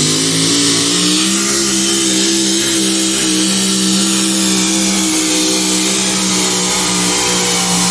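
Competition pulling vehicle's engine at wide-open throttle on a tractor-pull pass, loud. Its pitch climbs for the first second and a half or so, then holds steady at high revs.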